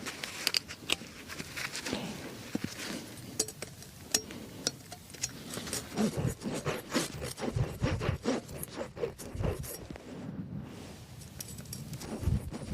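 Irregular clicks, scrapes and light knocks of wood and tools being handled, with a few heavier low knocks in the second half.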